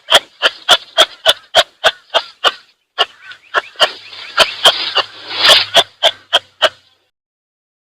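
An animal giving a rapid series of short, sharp calls, about three a second, stopping shortly before the end.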